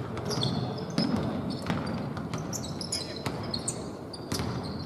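Basketball bouncing on the court during a streetball game: a handful of irregular sharp thuds, with short high squeaks in between.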